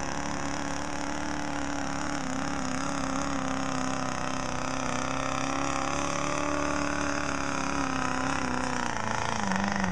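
Diesel pickup truck engine running hard under load while pulling a weighted sled. Its pitch holds and slowly climbs, then drops about nine seconds in as the load comes off.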